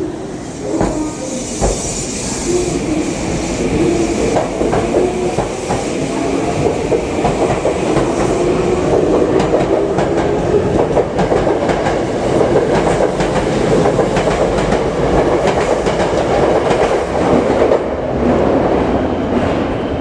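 Tokyo Metro 7000 series electric train pulling out of the station, its traction motors giving a rising whine as it gathers speed. The wheels click over the rail joints as the cars pass, and the sound grows louder through the first half.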